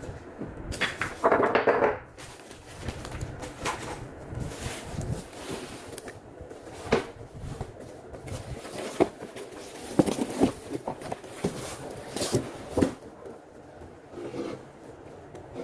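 Handling noises while the TV and its parts are fitted together: a loud rustle of packaging about a second in, then scattered sharp clicks and light knocks of screws and plastic parts.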